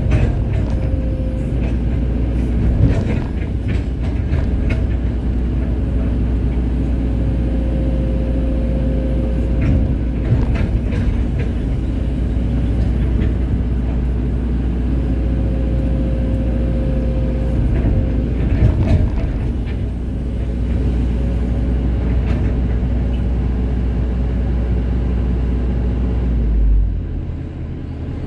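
Hydraulic excavator's diesel engine running steadily under load, with a recurring hydraulic whine and a few sharp knocks; the engine drops in level near the end.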